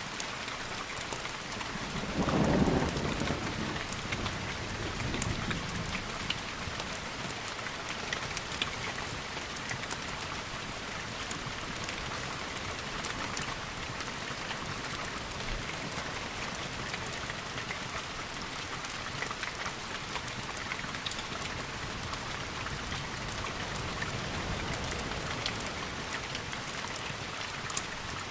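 Steady rain, with a short low rumble of thunder about two seconds in and a fainter rumble a couple of seconds later.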